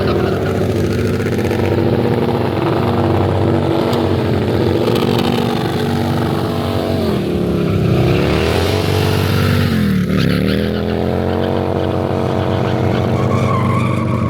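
Motorcycle engine running hard at high revs. The revs drop sharply and climb back twice, about halfway through and again a couple of seconds later.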